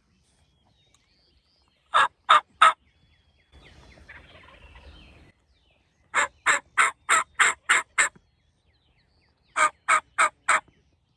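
Turkey yelping in quick runs of short, sharp notes: three about two seconds in, then seven, then four near the end. A faint rustle comes between the first and second runs.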